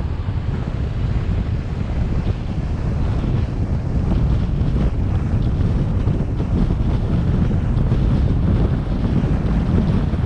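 Steady wind buffeting the microphone over the low rumble of a car driving along the road, a little louder about four seconds in.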